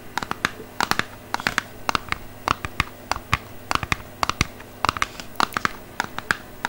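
Fingernails tapping and scratching on an unopened package of Wilson tennis balls: quick, irregular clicks, several a second.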